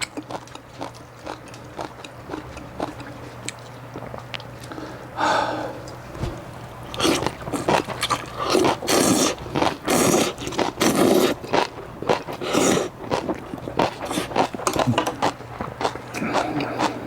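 A person eating a bowl of cold naengmyeon noodles: light clicks of utensils at first, then from about seven seconds in a run of loud slurps that tail off into quieter ones.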